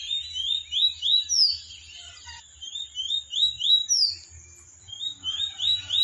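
Bird song: runs of quick rising chirps, several a second, with short breaks between the runs.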